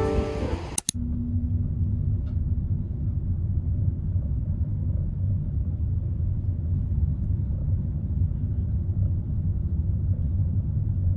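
Steady low rumble of a moving car, heard as road and engine noise inside the cabin.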